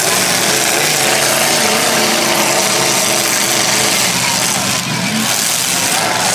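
Demolition derby cars' engines running and revving, loud and continuous, with pitch rising and falling.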